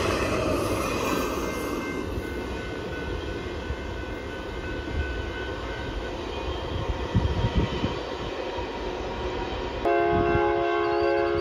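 Container well cars of an intermodal freight train rolling past with a steady wheel-on-rail rumble that slowly eases as the end of the train goes by. Near the end a locomotive horn starts suddenly, holding a steady chord of several notes, from the next train approaching the crossing.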